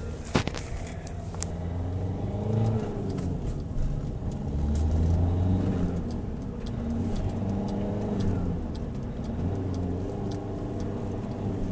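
Opel Astra H's 1.7 CDTI four-cylinder turbodiesel (Z17DTH) revved up and let fall back about three times, with a turbo whistle rising as the revs climb. A sharp click comes about half a second in.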